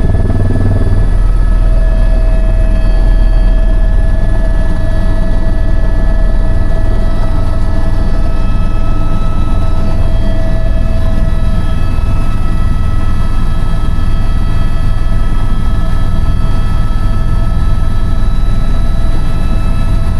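Eurocopter EC130 helicopter running steadily: a deep, even rumble of rotor and single turboshaft engine, with several steady whining tones over it.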